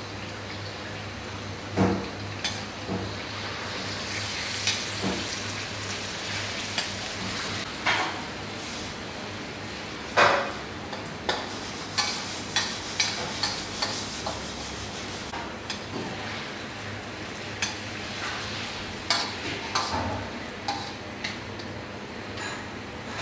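Chunks of meat frying with onions in oil in a steel wok, sizzling steadily while a metal slotted spoon stirs them, with repeated sharp clinks and scrapes of the spoon against the pan. A steady low hum runs underneath.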